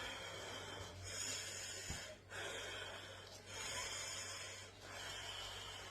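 A person's breathing close to the microphone, in about five noisy breaths of roughly a second each.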